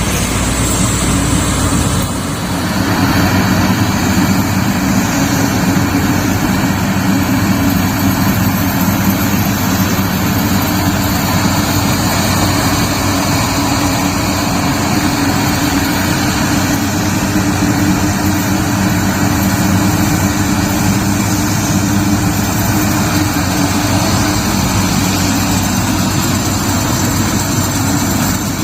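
Yanmar YH850 combine harvester's diesel engine running steadily, with a continuous low engine drone and mechanical noise.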